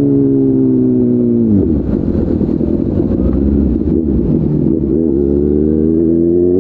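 Kawasaki ZX636R's inline-four engine through an SC Project slip-on exhaust, its revs falling steadily for about a second and a half, then running low and uneven for a few seconds before climbing steadily again near the end.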